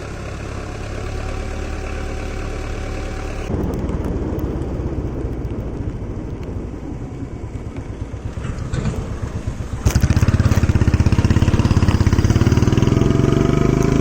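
An engine running, stepping up in level about 3.5 seconds in and again, much louder with a quick even pulse, about 10 seconds in, its pitch rising near the end as it speeds up.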